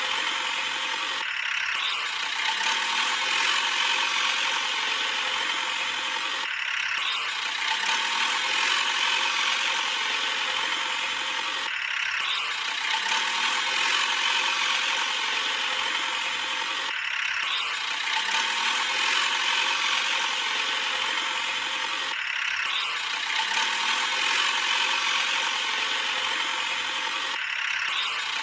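Toy JCB excavator's small geared motor whirring with a clicking, ratchety texture. The pattern repeats in a cycle about every five seconds.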